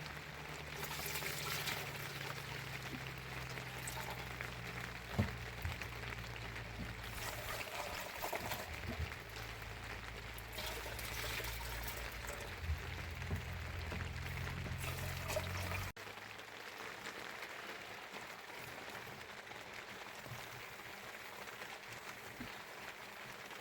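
Water trickling and pouring, with a steady low hum under it that cuts off abruptly about two-thirds of the way through.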